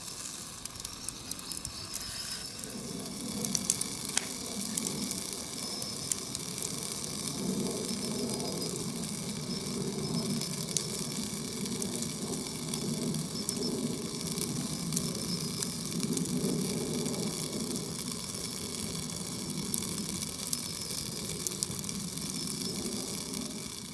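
Wood campfire crackling and hissing, with sharp pops scattered throughout and a low rumble joining a few seconds in. Faint insect chirping runs underneath.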